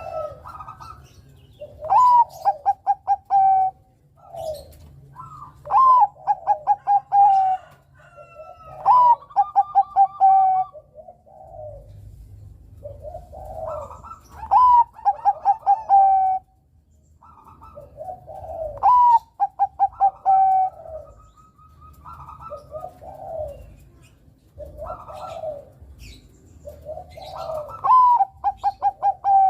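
Zebra dove (perkutut, Bangkok type) singing: about six loud song phrases, each a rising opening note followed by a quick run of staccato coos, with softer coos in between.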